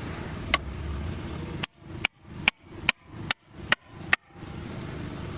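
Hammer blows during tyre bead-breaking on a loader wheel: a single strike about half a second in, then a quick run of about seven blows, roughly two and a half a second, over a steady low background hum.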